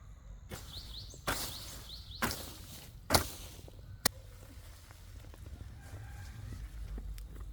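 Chickens calling, with short rising peeps early on and faint calls later, broken by four sharp knocks about a second apart, the third the loudest.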